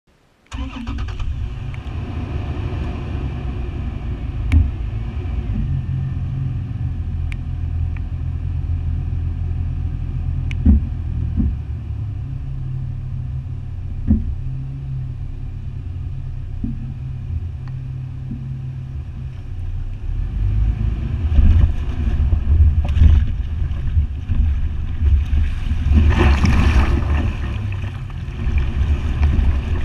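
Toyota FJ Cruiser's 4.0-litre V6 running at low speed, a steady low rumble with occasional sharp knocks. From about 20 seconds in it grows louder and rougher, with bursts of water splashing around the vehicle as it fords the river.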